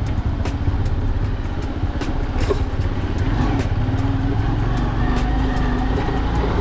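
Motor vehicle engine running while on the move: a steady low rumble with a regular train of faint clicks, about three a second.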